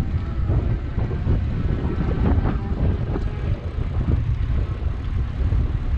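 Wind buffeting the microphone during a bicycle ride: a heavy, uneven low rumble.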